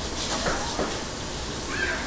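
Kitchen tap running steadily as hands are washed under it, an even hiss, with a couple of short faint pitched sounds over it.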